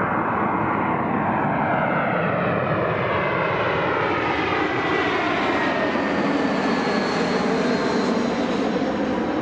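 Jet airliner passing close by: a loud, steady engine rush with a thin whine that slowly falls in pitch.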